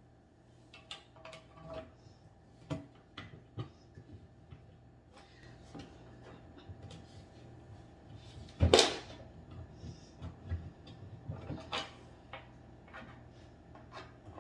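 Irregular clicks and knocks of hand tools and furniture panels being handled during flat-pack coffee table assembly, with one loud knock near the middle.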